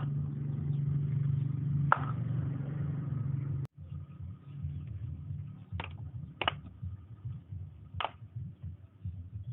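Toy truck rolling with a low rumble, which breaks off suddenly about a third of the way in and comes back uneven. A few sharp clicks follow near the middle and towards the end.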